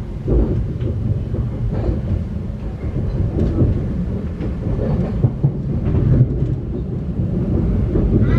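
Thameslink Class 700 electric train running on the line, heard from inside the carriage: a steady low rumble of wheels on rail with scattered irregular knocks and clicks.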